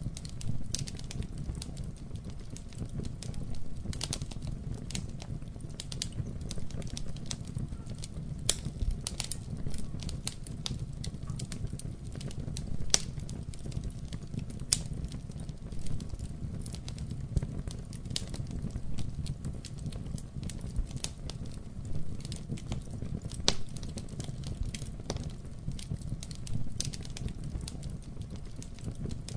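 Wood fire burning in a fireplace: a steady low rumble of flames with irregular crackles and sharp pops scattered throughout, a few louder pops standing out.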